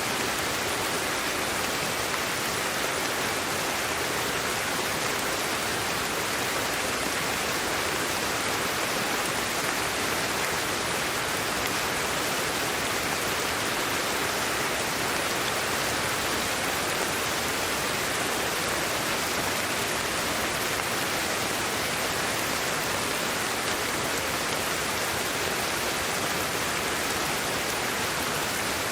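Steady white-noise sleep track: an even hiss, brightest in the middle and upper range, with no change in level.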